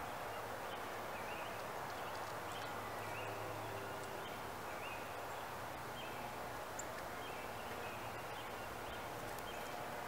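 Small birds chirping in the background, short high notes every half second or so, over a steady hiss of ambient noise.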